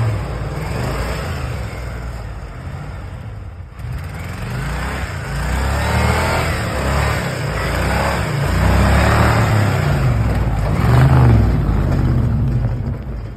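A blown car engine running and being revved, its note rising and falling several times, with a short dip about four seconds in.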